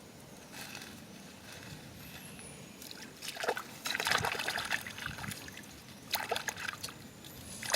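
Water splashing and trickling in a few irregular bursts, the longest about a second and a half long in the middle.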